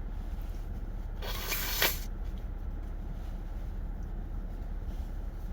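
Steady low room hum, with one short hissy, rustling noise lasting about half a second, a little over a second in.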